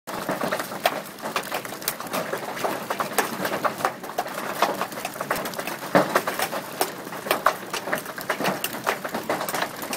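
Hailstones pelting a house and the ground in a hail storm: a dense, irregular clatter of sharp impacts over a steady hiss.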